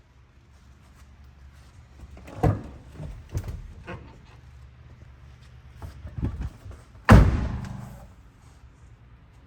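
A pickup truck door being handled, with several light knocks, then shut with one loud slam about seven seconds in that rings briefly. A low steady hum runs underneath.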